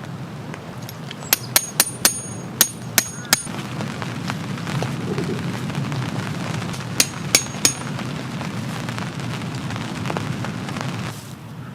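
Small metal objects clinking: a quick run of about seven sharp, ringing clicks about a second in, then four more around seven seconds in, over steady rain.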